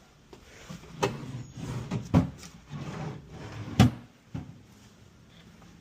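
Rummaging through storage: things shifted about, with three sharp knocks as drawers and cupboard doors are opened and shut, the loudest about four seconds in.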